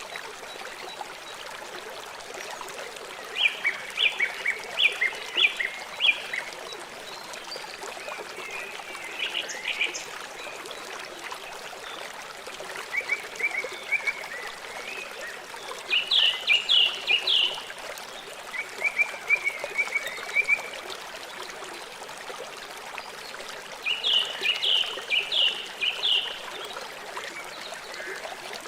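A river flowing with a steady rush. Over it, an animal gives short series of rapid high chirps about six times, each series lasting one to three seconds.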